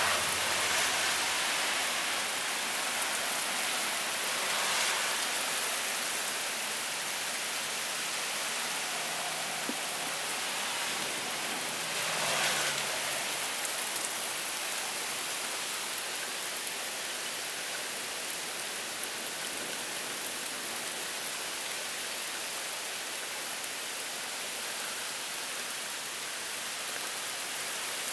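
Heavy rain from a cold-front downpour, falling in a steady hiss with a few brief swells in strength.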